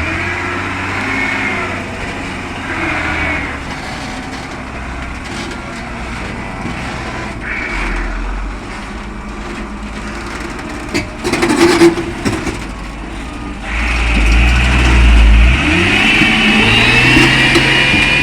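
Loaded coal truck's diesel engine running, then revving hard under load from about 14 seconds in as the truck strains to climb out of a deep pothole. A short burst of noise comes about two-thirds of the way through.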